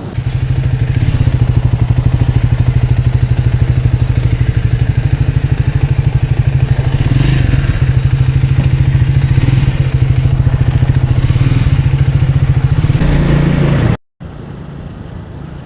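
Motorcycle engine running steadily under way, loud and close, with a fast even exhaust pulse. About fourteen seconds in, it cuts off abruptly and gives way to quieter riding noise.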